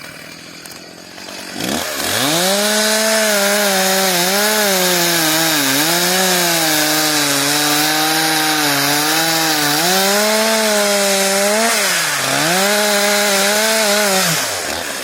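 Two-stroke chainsaw revving up about a second and a half in, then running at high revs through a cut in the wood. Its pitch sags briefly about four times.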